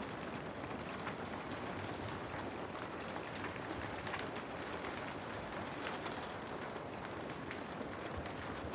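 Steady rain: an even hiss of falling rain with many small scattered drop ticks.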